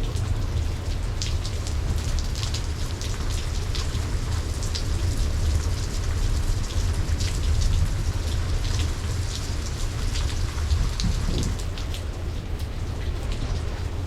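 Steady heavy rain, with many individual drops spattering close by over the general hiss, and a steady low rumble underneath.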